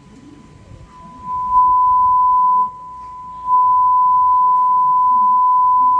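A steady pure test tone played through a repaired McIntosh MC240 tube amplifier. It is faint at first, turned up loud about a second and a half in, drops back for a moment near the middle, then is loud again until near the end.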